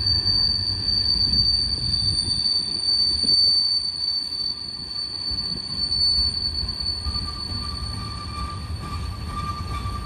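Freight train of tank cars and covered hoppers rolling past with a low rumble and a steady, high-pitched wheel squeal. A second, lower squeal joins about seven seconds in.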